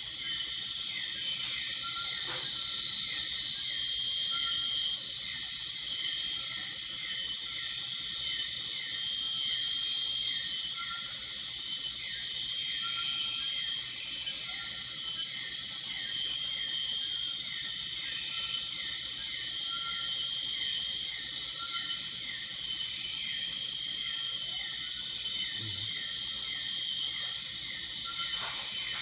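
Dense, steady chorus of insects, with a short chirp repeating about two to three times a second underneath.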